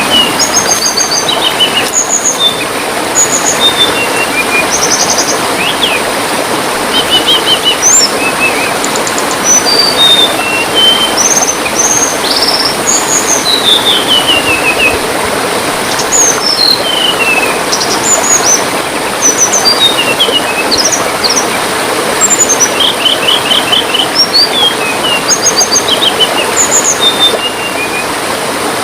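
Small songbirds chirping and trilling in quick, varied short phrases over the steady rush of trickling water.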